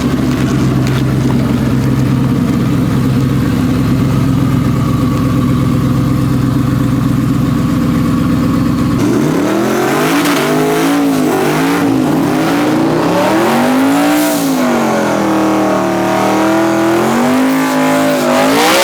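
Drag-racing engine running at a steady loud note for about nine seconds, then abruptly changing to revving up and down in repeated swoops.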